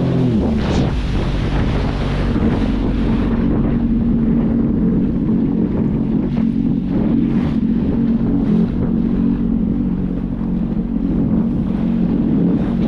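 Sea-Doo jet ski engine running at a steady pitch while under way, with wind buffeting the microphone.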